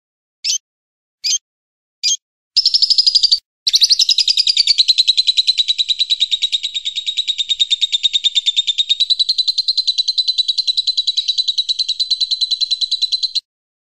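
Recorded songbird calls: a few short, high chirps, then a long, rapid, evenly pulsed trill lasting about ten seconds that stops abruptly.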